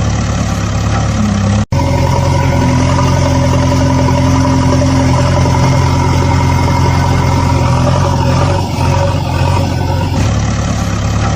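Tractor engine running steadily at idle, cut off for an instant just under two seconds in, then running on.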